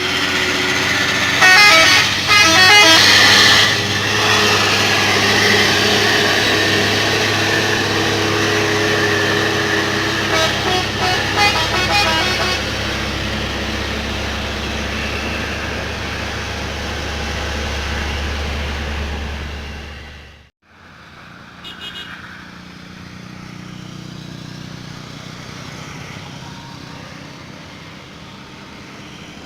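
Heavy truck engine running under load as it climbs a grade, with two spells of rapid, pulsing horn honks, one about two seconds in and one around ten to twelve seconds. The sound cuts off abruptly around twenty seconds and comes back quieter, with one short honk soon after.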